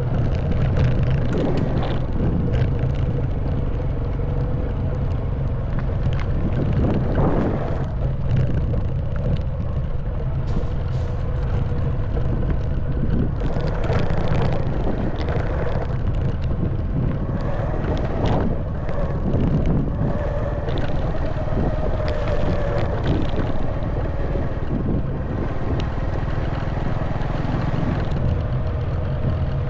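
Honda Wave 110cc motorbike's single-cylinder four-stroke engine running steadily while riding a rough stone and mud track. Frequent short knocks and rattles come through over the engine.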